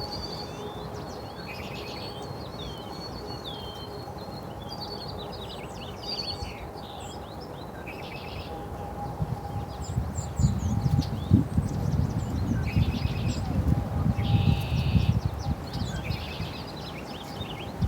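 Small birds chirping and twittering in quick short calls. From about ten seconds in, a louder low rustling and knocking close to the microphone joins them for several seconds.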